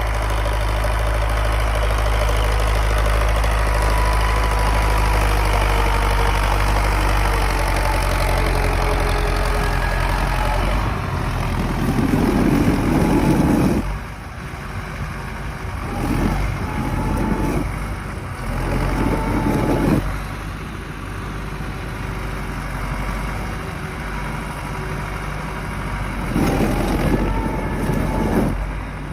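YuMZ tractor's diesel engine running steadily, then revved up several times in short surges of a second or two.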